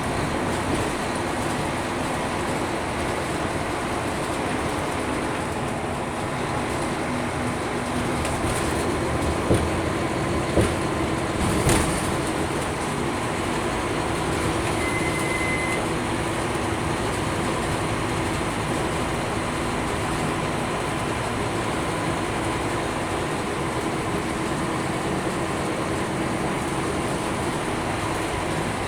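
Scania K310UB city bus heard from the passenger cabin while under way: steady engine drone and road rumble, with a few sharp knocks and rattles around the middle and a short high electronic tone soon after.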